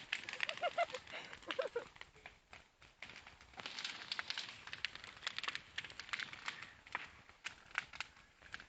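Wood bonfire burning, crackling with irregular sharp pops and snaps.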